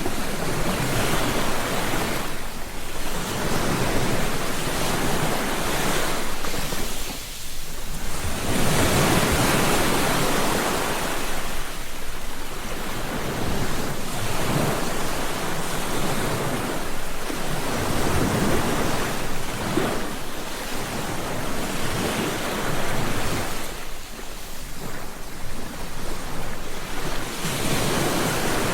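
Ocean surf: waves breaking and washing up on a beach, the wash swelling and ebbing every few seconds.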